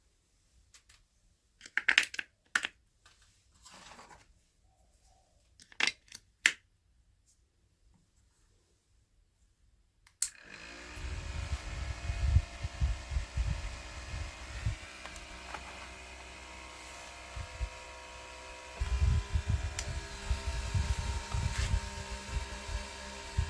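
A few scattered clicks and taps, then about ten seconds in a click and a small electric motor starts up and runs steadily with an even whine and an uneven low rumble. Its tone shifts slightly a little over halfway through.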